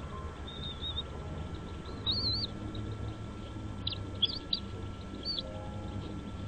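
A bird chirping: a short warbled note, then a rising-and-falling chirp, then a cluster of sharp, high squeaky notes, over a steady low background noise.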